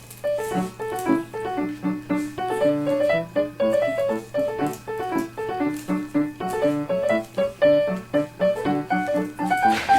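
Background piano music, a steady run of notes several to the second, with a brighter flourish near the end.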